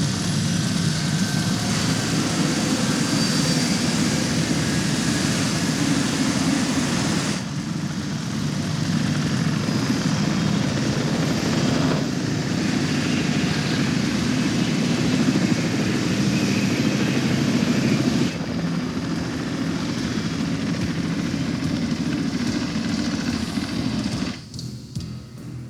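Steady drone of aircraft engines, with sudden changes in level and tone where the scene cuts, and a sharp drop near the end.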